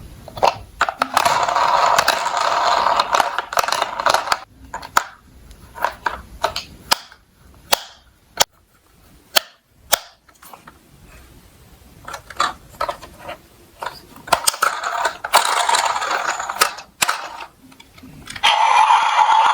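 Small toy trucks rolling and rattling down a slope, with scattered clicks and knocks as they bump and land. There are two longer stretches of rolling noise, one a second or so in and one about three quarters of the way through.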